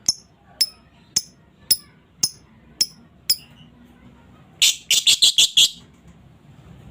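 Female lovebird calling: seven short, sharp, high chirps about two a second, then near the middle a fast, loud chattering trill of about six notes, the 'ngekek' call.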